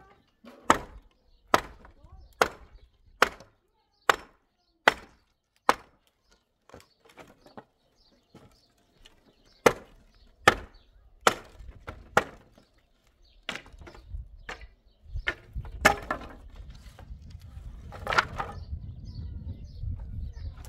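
Repeated hard blows on wood, about one every second: eight in a row, a pause, then four more. After that come scattered knocks over a low rumble.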